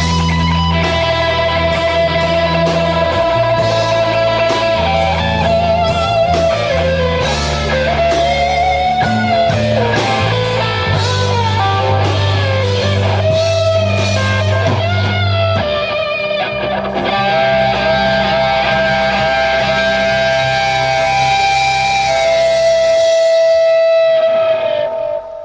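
Live rock band playing, electric guitars over bass and drums, with a wavering, bending lead line. About two-thirds of the way through the heavy bass drops out, and the band holds a long final chord that cuts off sharply at the end.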